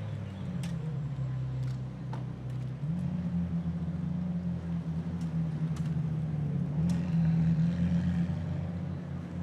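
Car engine running steadily at a low, even note that grows louder about three seconds in, with a few faint clicks over it.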